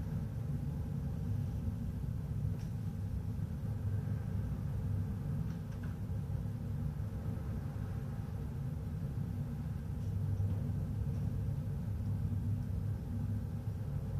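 Large ferry's engines and ship machinery droning steadily with a constant low hum, with a few faint clicks.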